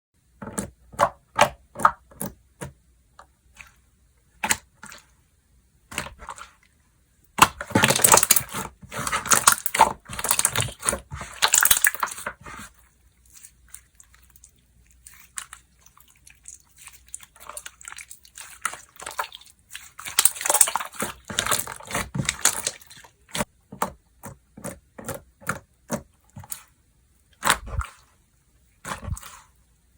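Slime being squeezed and poked by hand, making sticky clicks and pops, with two longer stretches of dense crackling and squelching, the first about a third of the way in and the second past the middle.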